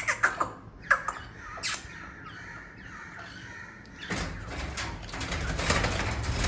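Several short, harsh bird calls in the first two seconds, each sliding down in pitch, then a louder rough rustling noise from about four seconds in.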